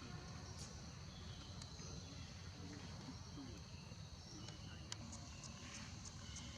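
Steady high-pitched drone of insects, with a short run of light clicks near the end.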